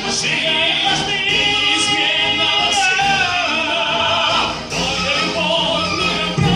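Live song with a singer holding long notes with vibrato over instrumental accompaniment.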